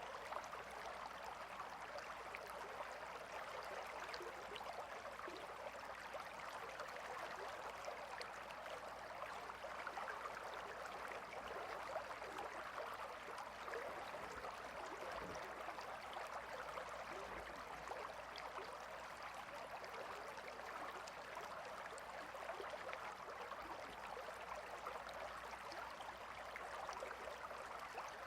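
Gentle river flowing: a steady, even babble of running water.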